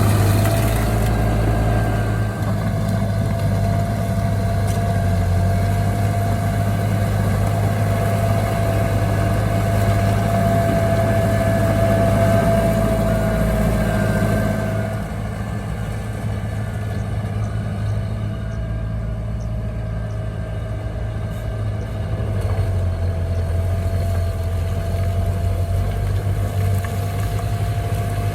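Diesel engine of heavy earthmoving machinery running steadily under work, with a constant whine over the engine note. It eases off about halfway through and picks up again near the end.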